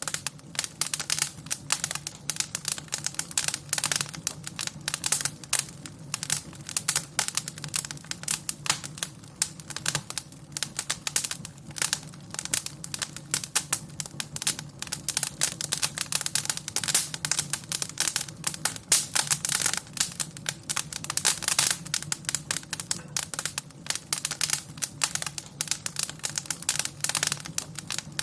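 Wood fire crackling in a fireplace: dense, irregular pops and snaps over a steady low background.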